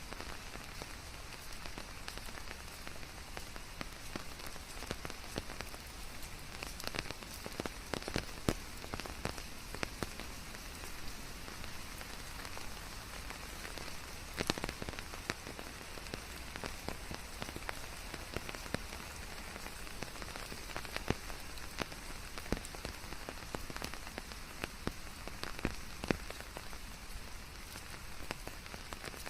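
Steady rain falling, with many individual drops pattering sharply on nearby surfaces over an even hiss.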